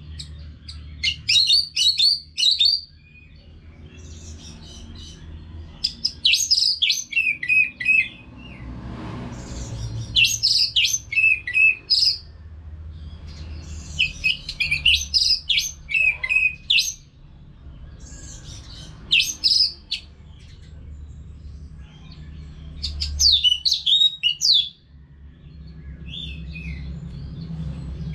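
Orange-headed thrush singing in about seven rapid, loud phrases of varied high chirps and whistles, each a second or two long with short pauses between, over a steady low hum.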